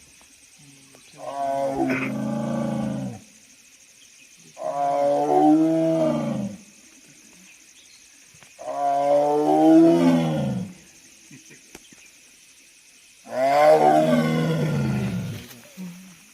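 Tiger roaring four times, each roar a long call of about two seconds that falls in pitch, with a few seconds of quiet between calls.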